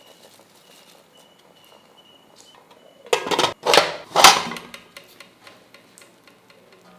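Metal cookware clattering and scraping: three loud, rough bursts close together about three seconds in, followed by a few light clicks.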